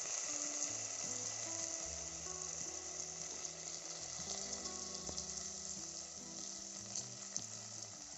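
Chopped tomatoes and potatoes sizzling in hot oil and spices in a pot, a steady frying hiss that eases a little toward the end. Soft background music plays underneath.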